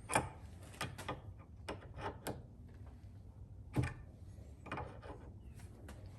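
Metal clinks and knocks of a wrench working threaded pipe fittings held in a vise: a scatter of short sharp taps, the loudest near the start and about four seconds in.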